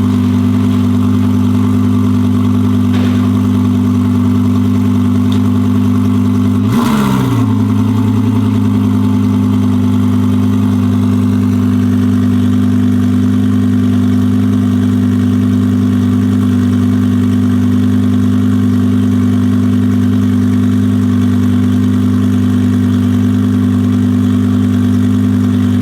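Twin-turbo Audi R8 V10 Plus engine idling steadily. About seven seconds in there is a brief shift in pitch with a short burst of noise, and then it settles back to a steady idle.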